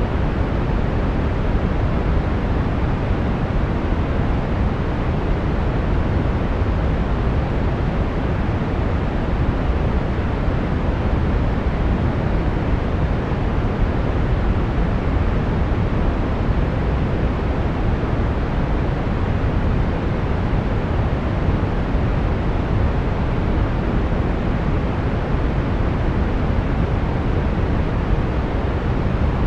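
Brown noise: a steady, even rush weighted toward the bass, fading off in the treble, with no change in level.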